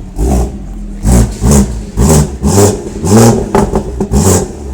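BMW M240's turbocharged straight-six being blipped hard through its exhaust, about seven or eight sharp revs in quick succession, very loud, showing off the exhaust note.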